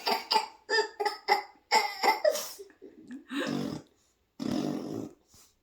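A baby's short, rapid, high-pitched vocal bursts, probably giggles, then two low, buzzy, mouth-made fart noises, each under a second long.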